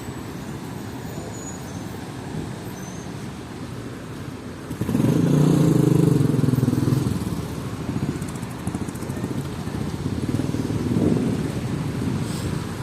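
City street traffic, with a motor vehicle passing close by about five seconds in, its engine loudest for a couple of seconds before fading back into the steady traffic noise.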